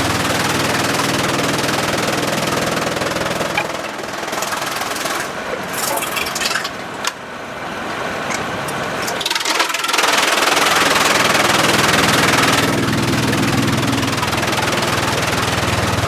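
Sawmill machinery running with a steady motor hum. The sound thins out in the middle with a few sharp clicks. About ten seconds in, a louder hissing noise runs for roughly three seconds, and then the hum returns.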